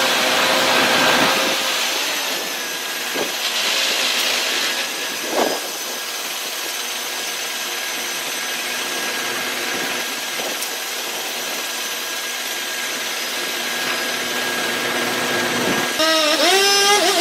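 Two-stroke chainsaw running under load while cutting, with a steady rasping noise. Near the end it revs up and down.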